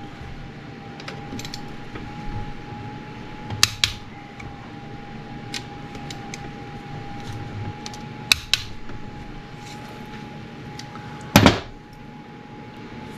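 Click-type torque wrench tightening the cylinder base nuts on a Honda CR250 two-stroke. It gives three sharp clicks or click pairs, about 4, 8 and 11 seconds in, each one the sign that a nut has reached its set torque. Light metallic clinks of the wrench and socket come between them.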